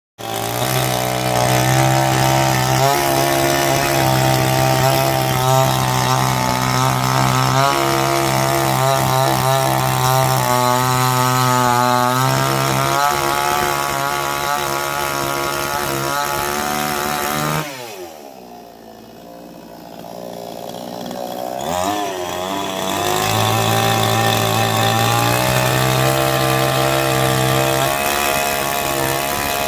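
Chainsaw engine running at high speed, its pitch shifting now and then. About two-thirds of the way in it drops quickly in pitch and goes quieter, then revs back up to full speed a few seconds later.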